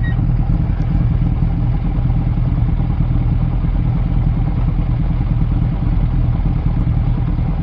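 Vehicle engine running steadily, a constant low hum with road noise.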